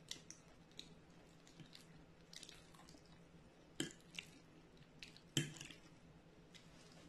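Close-miked chewing of fried tofu, with soft wet mouth crackles, and two sharp clicks of metal cutlery striking a ceramic plate about four and five and a half seconds in. A faint steady hum lies underneath.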